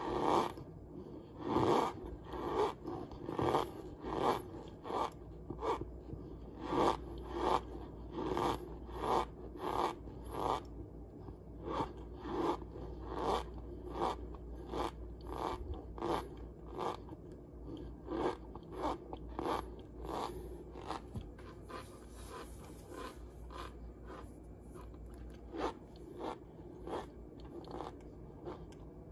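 Someone chewing crunchy chunks of cornstarch close to the microphone: a long run of short crunches, roughly one or two a second, getting softer in the second half.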